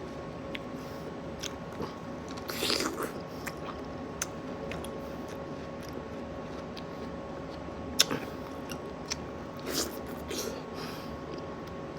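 Fresh fruit being eaten close to the microphone: scattered crisp bites and bursts of wet chewing. The sharpest bite comes about eight seconds in.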